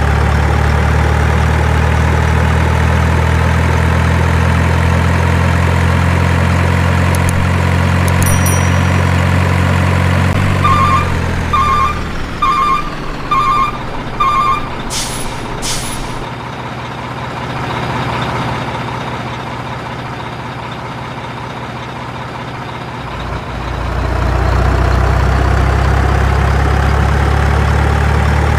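Heavy truck's diesel engine running steadily. About ten seconds in, the engine fades, a reversing alarm beeps five times and the air brakes give two short hisses. After a quieter stretch the engine returns near the end.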